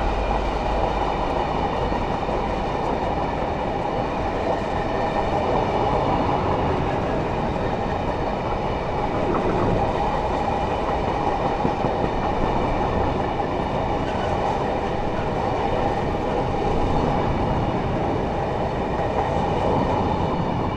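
Freight train hauled by a GB Railfreight Class 66 diesel locomotive passing: a steady, loud rumble and clatter of wagon wheels on the rails.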